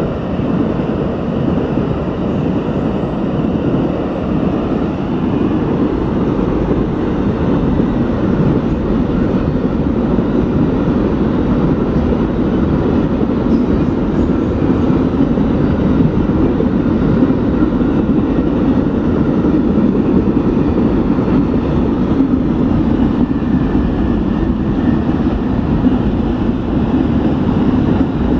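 Amtrak Auto Train rolling by on the rails: a steady, even rumble of railcars with no breaks.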